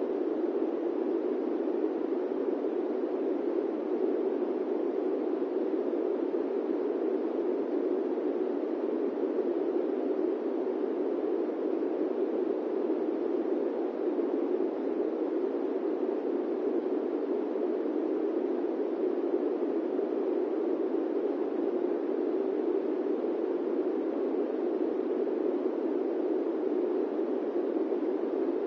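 Steady airplane-cabin white noise: an even, unchanging rush centred in the low-middle range, with no engine tones or events.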